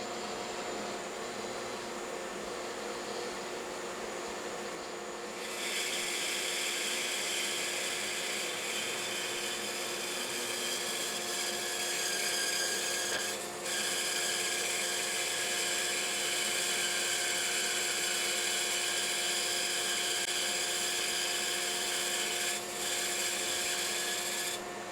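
Bandsaw running with its blade cutting slowly through a wooden block, tracing the curve around the top of a bandsaw box drawer. The cutting hiss rises about five seconds in, dips briefly twice, and stops just before the end.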